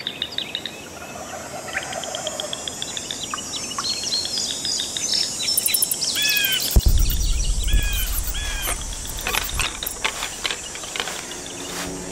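Outdoor ambience of several birds chirping and calling in short repeated notes. A sudden low thump comes about seven seconds in, followed by a low rumble lasting a couple of seconds.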